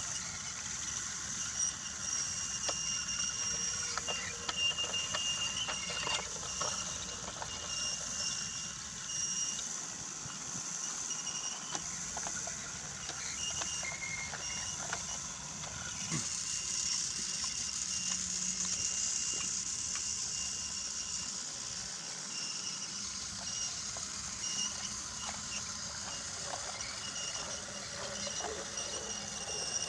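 Battery-powered Brio toy train running along wooden track: a steady high motor whine, with scattered small clicks from the wheels over the track.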